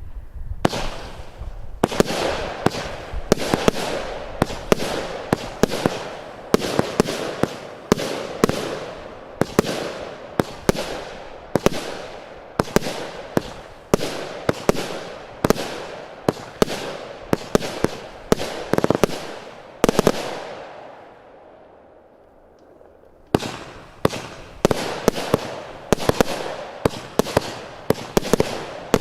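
Firework barrage, apparently Zeus Fireworks' "Extreme Lightning", firing shot after shot of sharp cracking reports, several a second, each with a short echo. The shots die away about two-thirds of the way through, and after a brief pause the cracking starts again.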